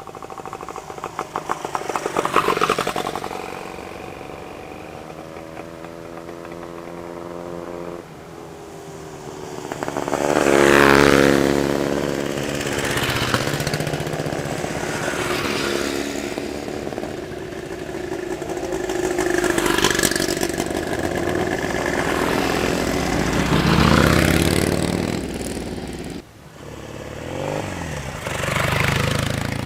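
Vintage Scott two-stroke twin motorcycles riding past one after another, each engine swelling up and fading away, some revving as they go by.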